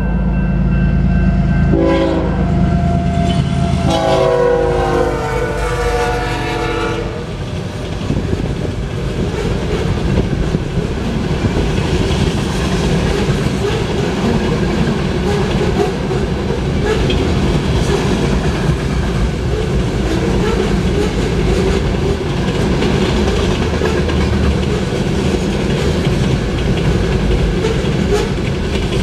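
BNSF GE ES44C4 diesel locomotive sounding its horn for a grade crossing over the heavy rumble of its engine: short blasts at the very start and about two seconds in, then a long blast from about four to seven seconds. After that, a long string of covered hopper cars rolls past with steady wheel clatter.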